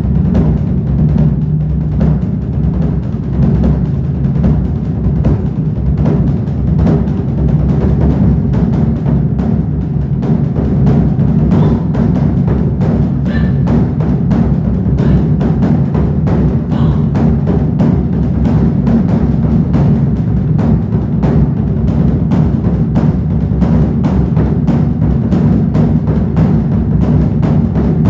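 Large Korean barrel drums (daebuk) beaten in a fast, dense, continuous rhythm, with deep, booming strokes.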